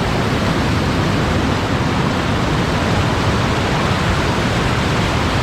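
Small waterfall rushing close to the GoPro's microphone: a loud, steady, even wash of water noise.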